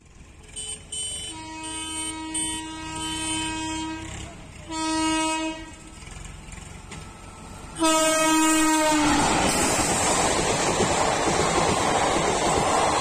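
An express train's locomotive horn blows three times: a long blast, a short one and a final louder one. Then the train passes close by with a loud, steady rushing noise of wheels on the rails.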